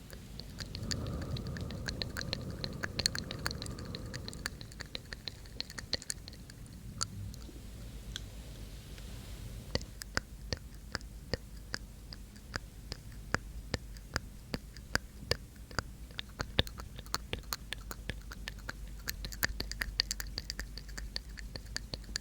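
Close-miked ASMR mouth sounds: wet mouth and tongue clicks ('tk tk'), several a second in an uneven rhythm, with soft unintelligible whispering and breathing in the first few seconds.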